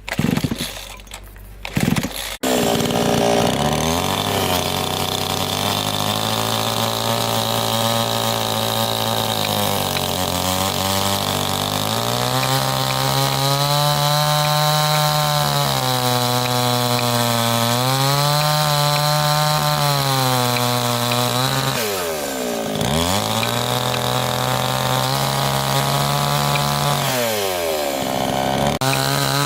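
A few sharp knocks, then about two seconds in a chainsaw starts running; its engine note sags repeatedly as it bites into the wood and climbs again as it eases off, dipping lowest about 23 seconds in.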